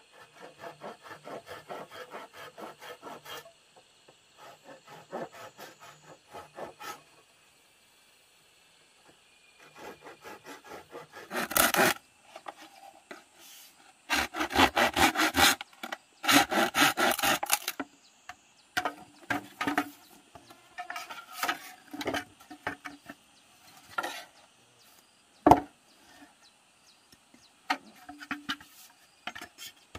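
A hand tool rasping on wood in bursts of quick, even back-and-forth strokes, loudest about halfway through, then scattered knocks and clatter of wood being handled.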